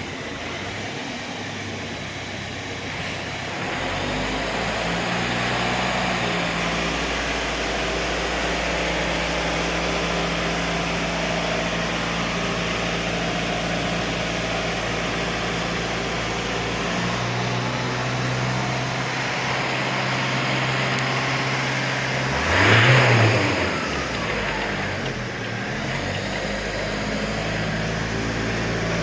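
A car engine running steadily, its hum shifting in pitch a few times, with one brief rev that rises and falls about 23 seconds in.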